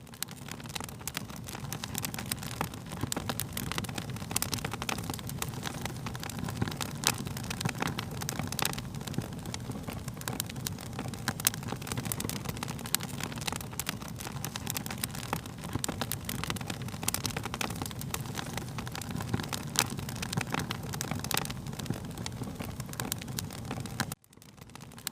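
Fire crackling: a steady low rumble with many sharp pops and snaps. The sound cuts out briefly about a second before the end, then comes back.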